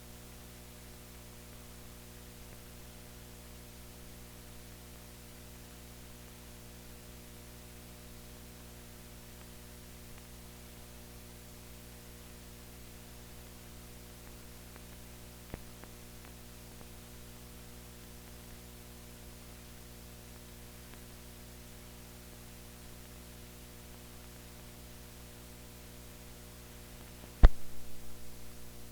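Steady electrical mains hum, a stack of low tones over faint hiss, from a soundless stretch of an old film transfer. A faint click comes about halfway through, and a loud sharp pop near the end trails off over about a second.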